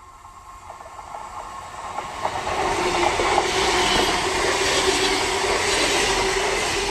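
A train approaching and passing along the track. It grows louder over the first couple of seconds, then holds as a loud steady rush with clicking wheels and a sustained tone.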